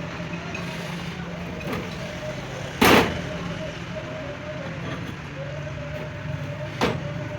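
Lathe turning a truck axle, its motor running with a steady low hum and a faint wavering whine. Two sharp metal knocks cut through it, a loud one about three seconds in and a lighter one near the end.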